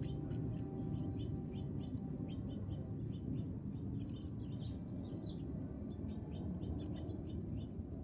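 Small birds chirping: many short, quick chirps in irregular clusters over a steady low background rumble.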